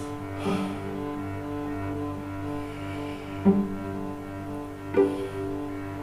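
A cello played with the bow in slow, sustained notes, a new note starting about every one and a half seconds over a steady low tone.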